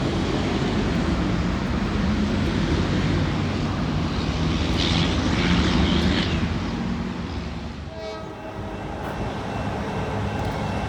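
Diesel train rumbling steadily, with a train horn starting to sound faintly near the end.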